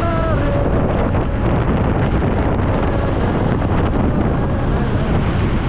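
Wind rushing over the microphone of a moving motorcycle, a steady loud roar with the rumble of the bike and road underneath.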